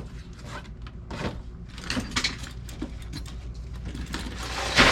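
Handling noise: scattered clicks and rustles of parts and tools being moved, with a louder scrape near the end, over a steady low hum.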